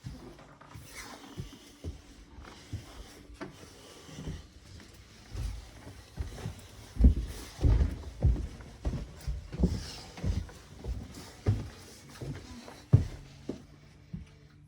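A series of dull, low thumps and knocks, sparse at first and then coming about two a second from about five seconds in until near the end.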